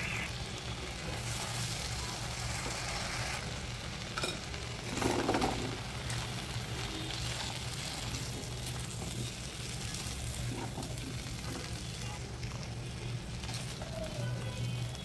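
Potato chunks and spice paste sizzling in hot oil in a nonstick frying pan while being stirred with a silicone spatula. There is a steady low hum underneath and a brief louder burst about five seconds in.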